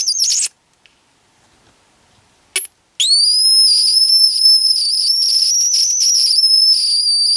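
Electronic bird-chirp generator circuit: a fast run of chirps cuts off about half a second in, a single short chirp comes about two and a half seconds in, and from about three seconds a steady high whistle holds with a slight waver instead of chirping. This is the sign of the driving two-transistor astable multivibrator stopping and not starting again.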